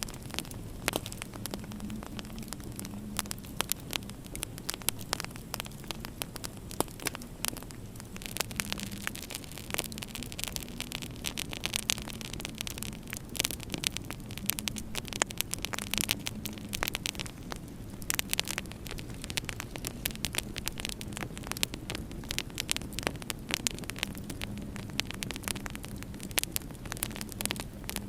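Wood fire in a fireplace crackling, with many small sharp pops over a steady hiss, and a low hum that swells and fades.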